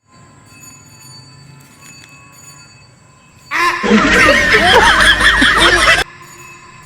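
Faint steady hum, then about three and a half seconds in a loud burst of several voices laughing together that starts and cuts off abruptly after about two and a half seconds.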